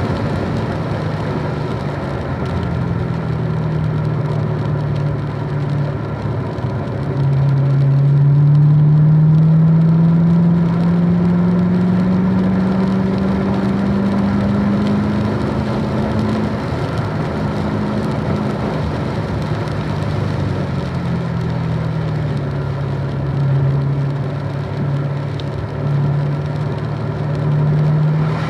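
Car engine at speed on a wet track, pulling with a long rise in pitch for several seconds about a quarter of the way in, then easing back and running at a steadier, lower note. A constant hiss of tyre spray and rain lies under it.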